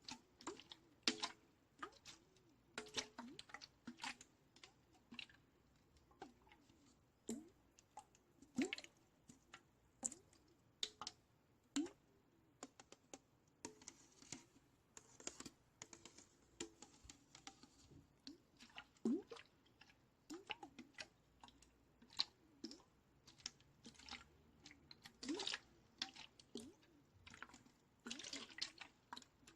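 Close-miked ASMR water and tapping sounds: irregular small taps and clicks mixed with soft water drips and plinks, a few every second.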